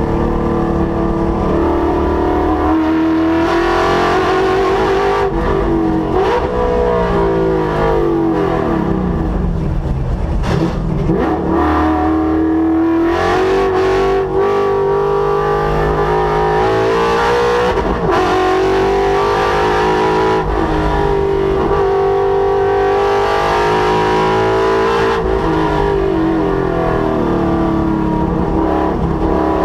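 Ford S197 Mustang's 5.0-litre Coyote V8 being driven hard on a race track. The revs climb repeatedly and drop sharply at each gear change, with a longer fall in engine pitch about a third of the way through as the car slows.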